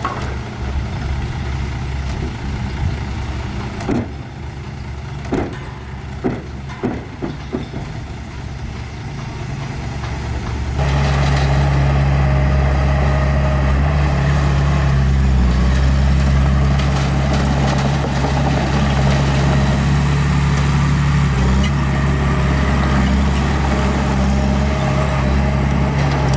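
Small bulldozer's diesel engine running steadily, with a few sharp knocks a few seconds in. About eleven seconds in the engine gets abruptly louder and stays at that level.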